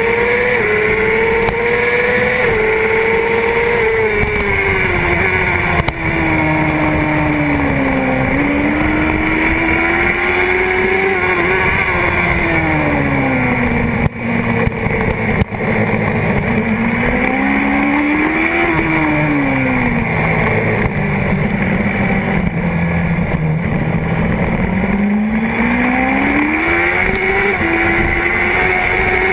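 Honda CBR600RR's inline-four engine at racing revs, heard close up from the fuel tank. Its pitch climbs and falls over and over as the rider accelerates, shifts and brakes into corners, with a few brief dips in level around the middle.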